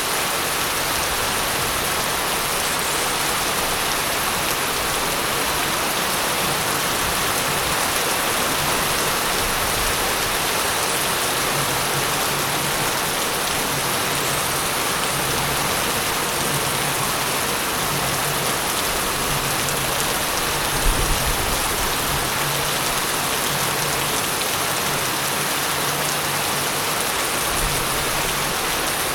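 Steady, heavy rainfall, an even hiss of rain on surfaces, with a brief low thump about two-thirds of the way through.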